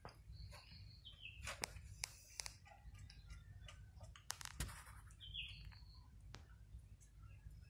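Faint, short chirps of small birds, a few times, with scattered small clicks over a low steady hum.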